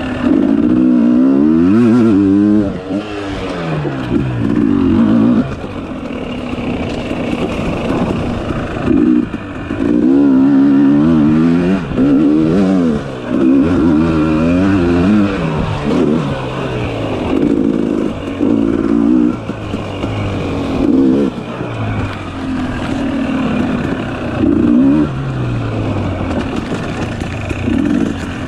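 Dirt bike engine revving hard and easing off over and over as the throttle is worked, its pitch rising and falling in quick repeated sweeps.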